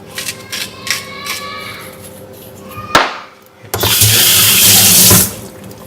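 A few short squeaky grinding strokes, then a sharp click and a loud rush of running water for about a second and a half, like a tap turned on full and shut off.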